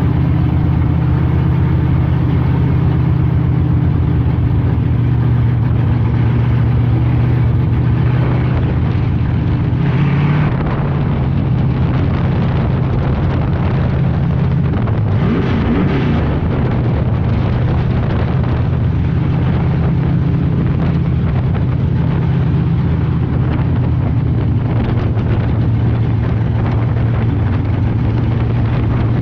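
Street stock race car engine running loudly at a steady speed, with a brief change in pitch about ten seconds in and a short dip and rise around the middle before it settles again.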